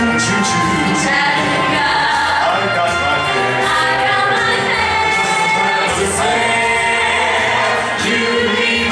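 A vocal group singing a pop song in harmony, with several voices over a band accompaniment with bass and drums.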